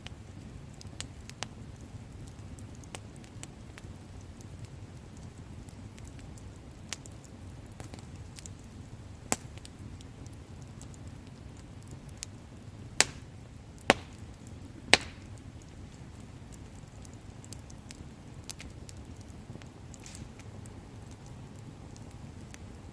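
Wood campfire burning: a steady low rustle of flames with scattered small crackles and occasional sharp pops of burning wood, the loudest three coming close together just past the middle.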